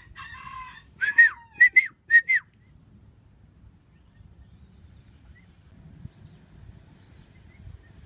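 A nestling songbird begging: a short buzzy call, then about five loud, short chirps over a second and a half, each rising and falling in pitch.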